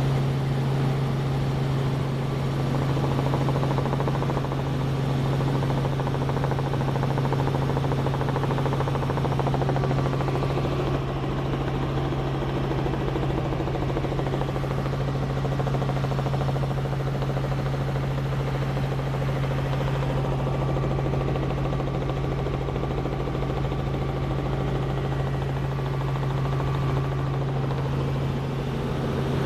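Helicopter in flight: steady rotor and engine drone with a strong, constant deep hum.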